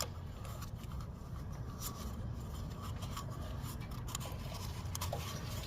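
Faint rubbing and a few small clicks as hands work a new rubber O-ring onto the oil filter housing cap, over a steady low hum.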